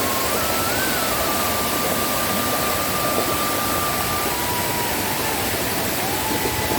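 A waterfall in rainy-season flood, its water rushing in a steady, loud noise. A faint high tone is also heard, shifting pitch a few times.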